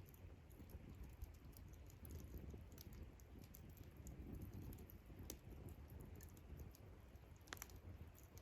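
Wood campfire crackling faintly with irregular small pops and snaps, two sharper pops a little after five and after seven and a half seconds.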